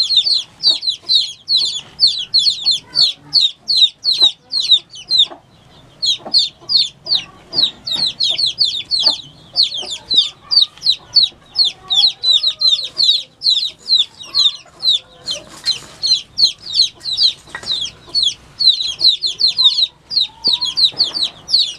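Newly hatched chicks peeping: a rapid, unbroken stream of short, high peeps, each falling in pitch, from several chicks at once, with a brief pause about five seconds in.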